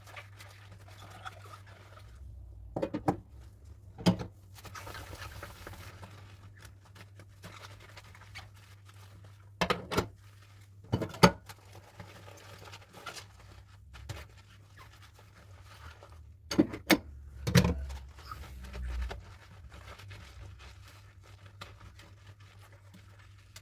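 Dishes being washed by hand: scattered clinks and knocks as dishes and utensils are handled and set down, with scrubbing and brief water noise between them, over a steady low hum.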